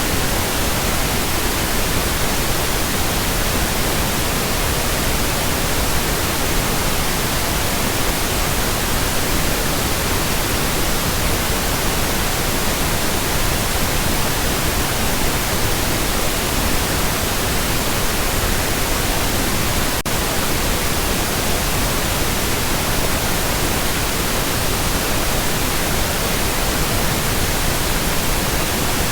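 Steady pink noise: an even, unbroken hiss spread across all pitches, unchanging in level.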